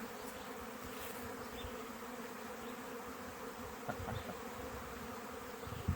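Honey bee swarm buzzing: a steady hum of many bees flying around.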